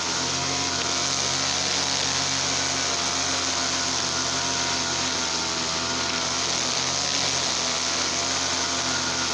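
Gasoline brush cutter engine running steadily at an even speed.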